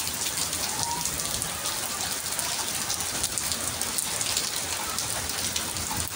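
Steady rain: a dense, even hiss of falling rain with many small ticks of drops landing close by.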